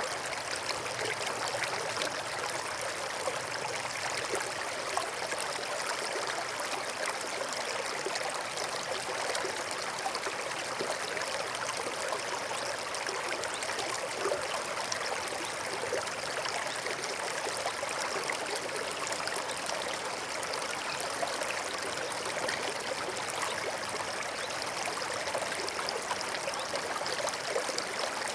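Forest stream flowing steadily, water trickling and babbling over rocks.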